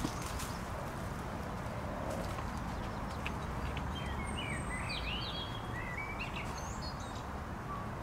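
Small birds chirping and singing, with a cluster of short gliding calls a few seconds in, over a steady low outdoor rumble.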